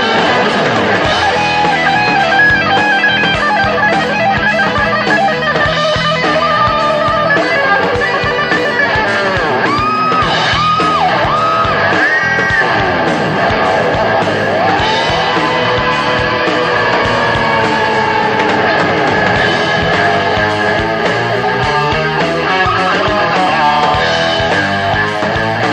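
Instrumental break in an Indonesian rock song: an electric guitar plays a lead line over the band. There are several quick string bends in the middle of the passage.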